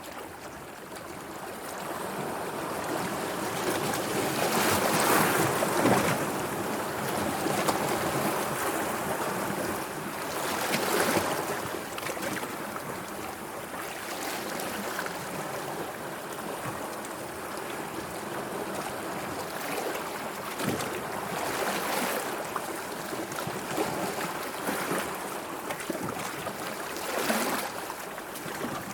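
Sea water washing and lapping, a steady wash that swells into louder surges every several seconds as waves come in.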